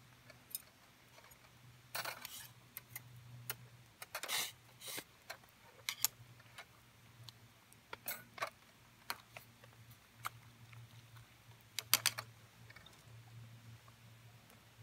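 Irregular light clicks and clinks of small hard objects, coming in scattered clusters, the sharpest near the middle and a quick run of them about two-thirds of the way through, over a faint steady low hum.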